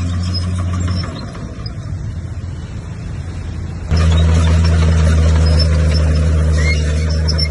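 Heavy diesel engine of a bulldozer running steadily with a low, even note. About a second in, it drops to a quieter, rougher sound, then comes back suddenly louder a little before the halfway point.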